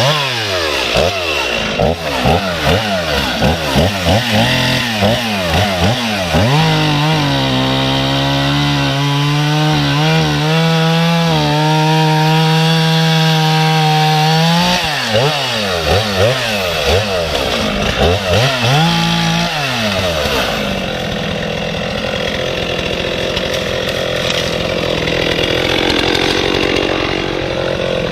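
Gas chainsaw cutting up a log: the engine is revved up and down over and over, then held at a steady full-throttle pitch for several seconds in the cut, then revved up and down again. In the last third the clear engine note gives way to a rougher, steadier running sound.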